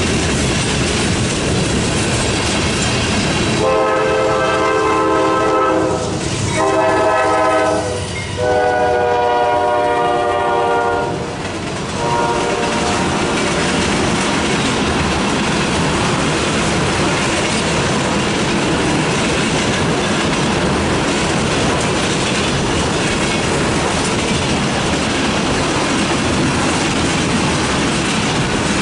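Freight train of tank cars rolling past with a steady clatter of wheels on rail joints. A few seconds in, a multi-tone locomotive horn sounds three blasts, the last the longest, then only the rolling cars remain.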